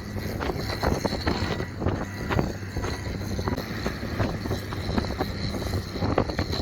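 An engine running steadily under strong wind buffeting the microphone, with frequent irregular knocks and gusts. The engine is plausibly heavy road-clearing equipment at work.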